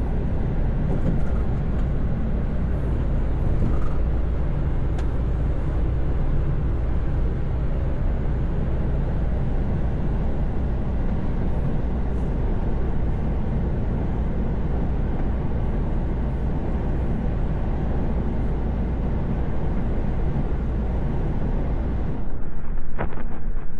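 Lorry cab on the motorway: a steady low drone of diesel engine and road noise while cruising. Near the end the sound changes and there are a few sharp clicks.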